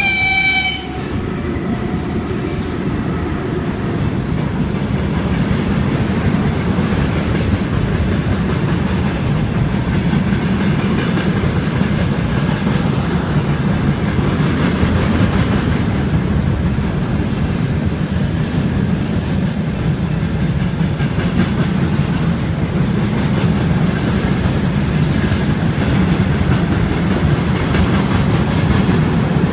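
Long freight train of open wagons rolling past on the tracks below, a steady rumble and clatter of wheels on rail.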